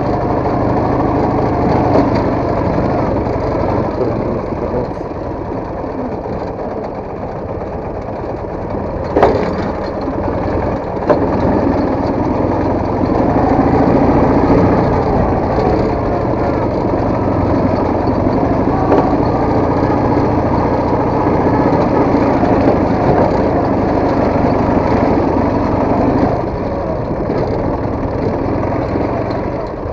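Soviet motorcycle engine running while riding on a forest trail, its note rising and falling with the throttle. Two sharp knocks come at about nine and eleven seconds.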